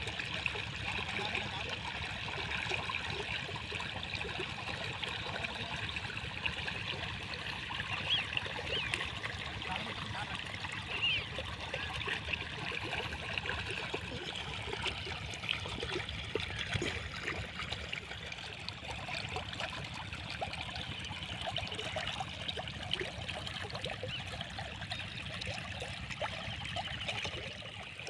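Pumped water pouring steadily out of an irrigation pipe, fed by a diesel-engine water pump.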